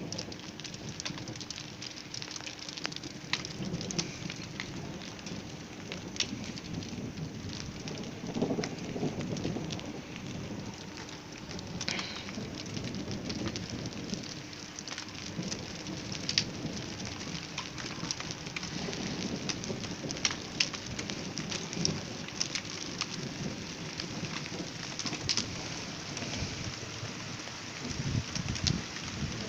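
Steady rain falling, with many sharp ticks of drops hitting a surface. Low rolling rumbles of thunder swell and fade several times underneath.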